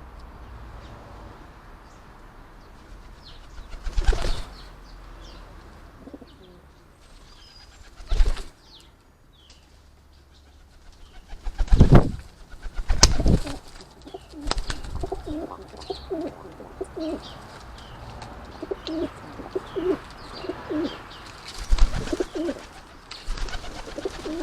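Feral pigeons cooing in low repeated notes through the second half, with several loud sudden flurries of wing flapping as birds land on and leave the bird table. Faint chirps of small birds.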